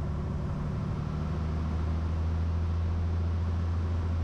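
Cessna 182's engine and propeller droning steadily in the cabin on the base leg of a landing approach, picked up through the intercom audio feed. It gets slightly louder about halfway through.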